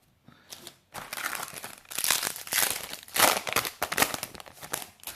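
Foil Yu-Gi-Oh booster pack wrapper being crinkled and torn open, in a run of rustling bursts starting about a second in.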